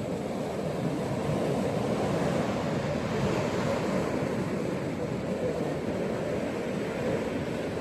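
Ocean waves breaking and washing on a beach, a steady surf wash that swells gently a second or two in.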